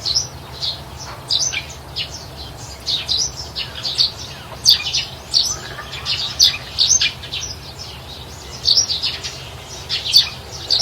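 Birds chirping: many short, high calls in quick, irregular succession.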